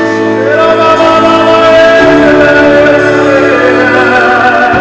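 Worship music: sustained keyboard chords, with a wavering held melody line, singing or ad-lib, over them. The chord changes about two seconds in.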